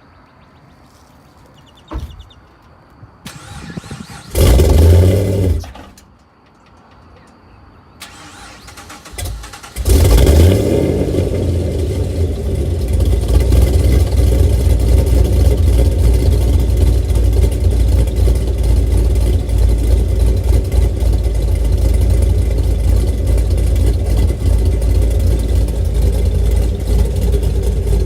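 Cammed 2010 Camaro SS V8 with long-tube headers and Flowmaster exhaust being started. It fires loudly for about a second and a half and dies, is cranked again, catches about ten seconds in, and settles into a loud steady idle.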